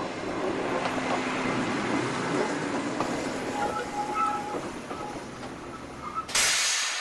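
A train running along rails: a steady rushing rumble with a few faint squealing tones midway. It ends in a sudden louder rush of noise near the end that fades away.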